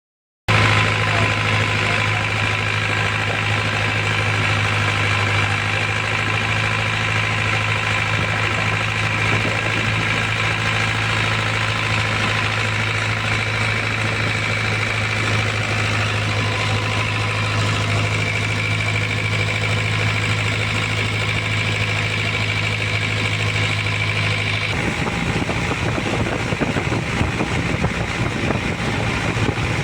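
Boat engine running steadily with a constant low hum. About 25 seconds in the steady engine tone stops abruptly and a rougher rushing noise takes over.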